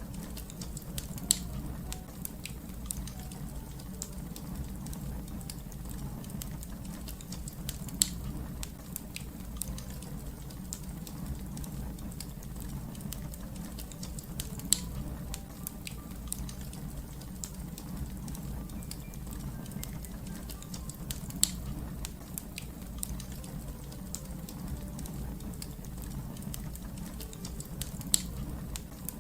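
Wood fire crackling: a steady low rumble of burning with constant small crackles and five louder sharp pops at even intervals, about every six to seven seconds.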